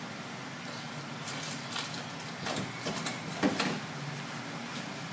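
Kitchen utensils scraping and knocking in short, separate strokes over a steady low background, loudest about three and a half seconds in.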